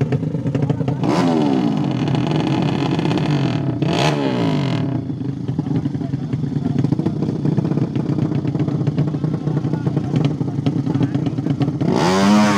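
200cc motorcycle engine idling, blipped up in revs and dropping back about a second in and again around four seconds, then revved hard near the end.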